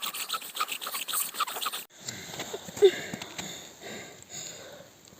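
A bow drill's wooden spindle rasping quickly back and forth in the hearth board as the bow is sawn, grinding to raise a smouldering ember. It stops abruptly about two seconds in, and faint rustling follows.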